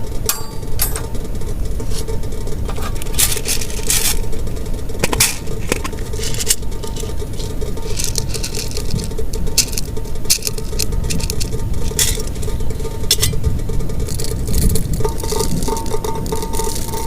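Heavy rain falling steadily, with many scattered sharp clinks and taps throughout.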